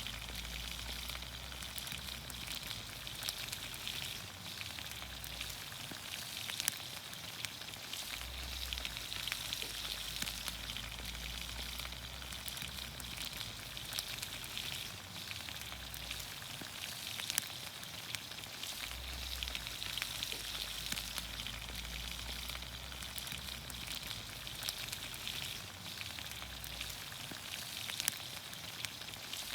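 Vegetables sizzling in olive oil in a pan over a campfire: a steady sizzle dotted with sharp pops and crackles.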